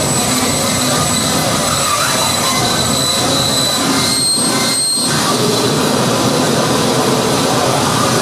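Loud, dense wall of harsh noise music played live. It has thin, steady high whistling tones layered over it, and it briefly thins out twice, about four and five seconds in.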